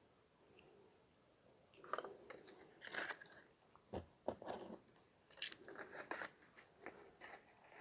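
Faint irregular clicks and crinkles of small objects being handled close to the microphone, starting about two seconds in.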